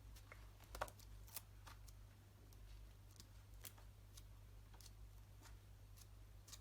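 Near silence with a steady low hum, broken by faint, brief clicks and rustles of a book's pages being handled and turned.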